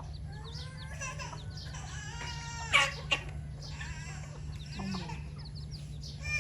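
Chickens calling, many short high pitched calls, some falling in pitch, over a steady low hum. Two sharp knocks come close together a little before the middle.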